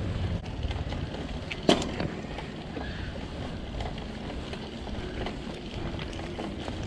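Mountain bike ride heard from a bike-mounted camera: steady wind on the microphone and tyre rumble on a rough road, with scattered light rattles and one sharp knock just under two seconds in.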